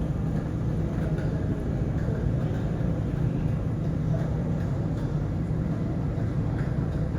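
A steady low mechanical drone over even background noise, unchanging throughout.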